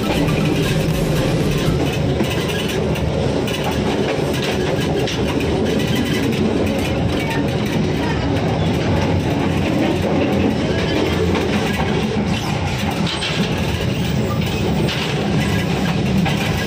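Kahuripan passenger train running on the line, heard from aboard a coach: a steady rumble and rattle of wheels on the rails.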